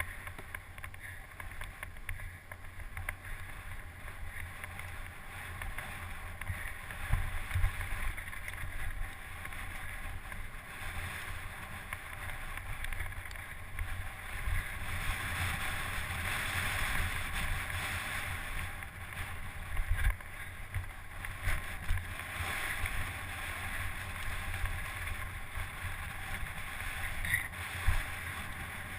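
Wind buffeting the microphone of an on-board camera on a mountain bike racing downhill, over a steady rolling hiss, with a few sharp knocks from the bike.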